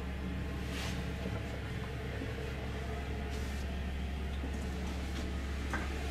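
Steady low hum and rumble inside the passenger cabin of an RhB Allegra ABe 8/12 electric multiple unit, with a few faint knocks about a second in and near the end.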